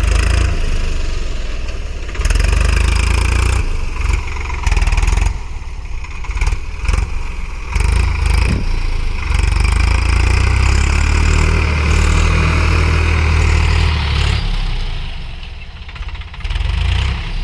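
Swaraj 855 FE tractor's diesel engine running, its level rising and falling, with frequent short knocks and buffeting over the engine note.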